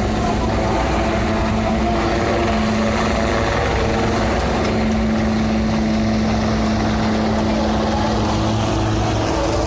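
Steady engine drone with several held tones over a constant rushing noise, unchanging throughout.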